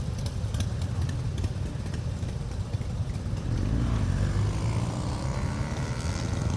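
Many Harley-Davidson motorcycles' V-twin engines rumbling together as a group rides past. A louder engine note sweeps through about halfway in, shifting in pitch as one bike passes close.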